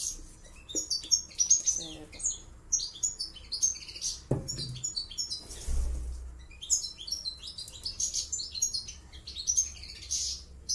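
Small songbirds chirping and twittering quickly and continuously in high, short notes.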